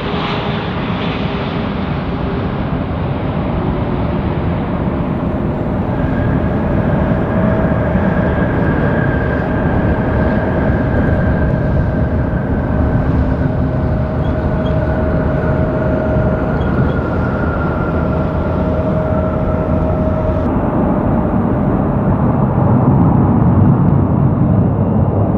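Jet airliner on approach to land passing the spot: a steady engine rumble with a whine that slowly falls in pitch, growing a little louder near the end.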